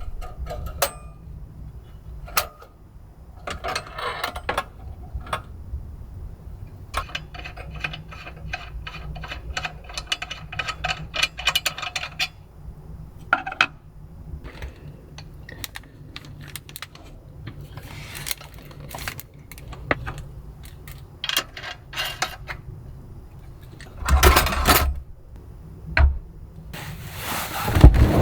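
Small hard objects being handled: scattered clicks and clatter, a quick rattling run of clicks in the middle, and a couple of louder knocks near the end.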